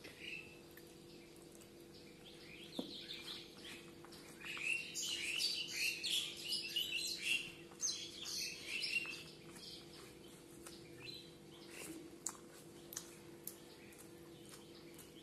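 Birds chirping in a quick, busy run of short high calls for several seconds in the middle, over a steady low hum.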